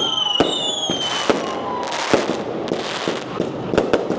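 Firecrackers and fireworks going off in an irregular string of sharp bangs and crackling. A high whistle slides down in pitch and fades out about a second in.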